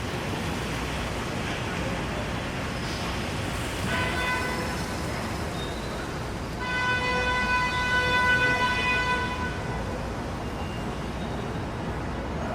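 Vehicle horn honking over steady rain and street traffic noise: a short honk about four seconds in, then a long held blast of nearly three seconds.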